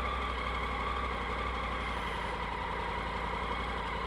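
Motorcycle engine running steadily at idle, a low even hum.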